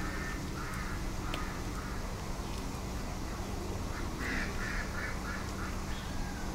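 Bird calls: a run of short, repeated calls near the start and a louder, quicker run of about five calls a second some four seconds in, over a steady low background rumble.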